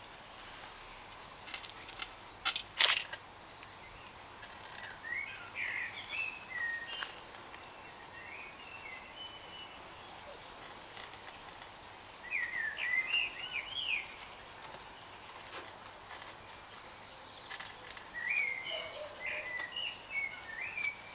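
A songbird singing in three short bouts of quick, warbling high notes over quiet outdoor background. There is a sharp knock about three seconds in.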